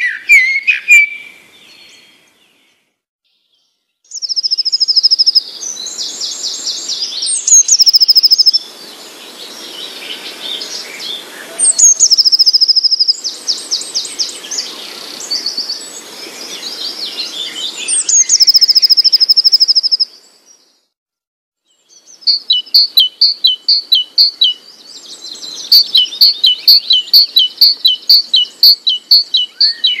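A songbird singing: long, fast high trills alternating with runs of rapidly repeated whistled notes that quicken near the end, with two short silent pauses.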